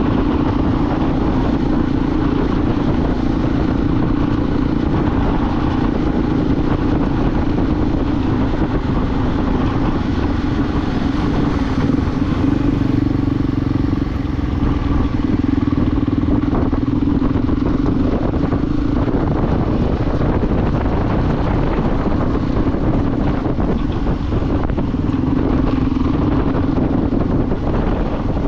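Motorcycle riding at a steady speed: the engine holds one steady note with little change, over a dense low rumble.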